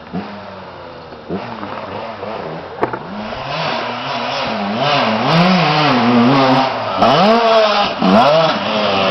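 Dirt bike engine revving up and down, its pitch rising and falling over and over and getting louder, with two sharp throttle chops near the end.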